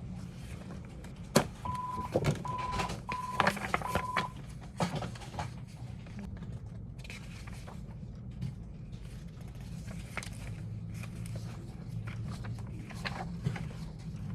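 Four short electronic beeps at one pitch, each about half a second, with clicks between them, over a steady low hum; a sharp click comes just before the first beep.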